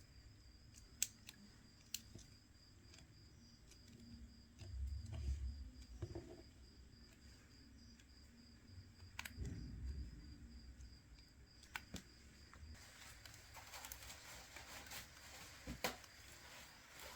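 Quiet hand work on a smartphone on the bench: scattered small clicks and taps of tools and parts, with a couple of low bumps from handling.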